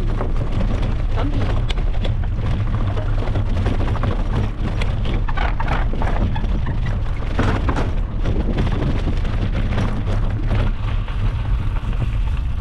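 Loud wind buffeting the microphone: a steady low rumble with crackling on top, as when riding a bicycle at speed.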